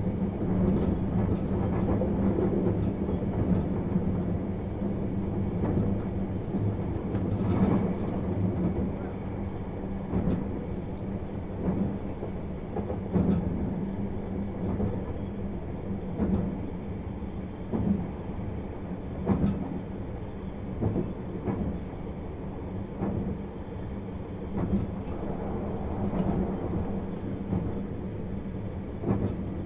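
Interior running sound of a 651 series electric train: a steady rumble from the wheels and bogies, with sharp rail-joint clicks every second or two.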